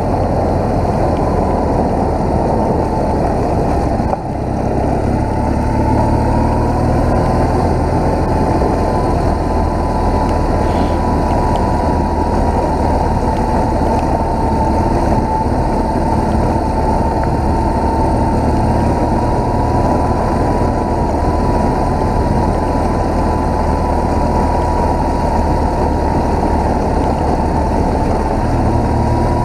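BMW motorcycle engine, a flat-twin boxer, running steadily as the bike is ridden, with a brief dip in level about four seconds in.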